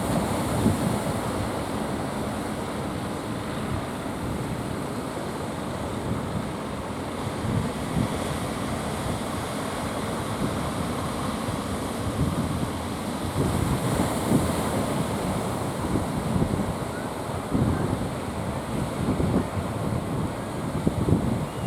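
Strong wind buffeting the microphone in uneven gusts over the continuous wash of sea surf.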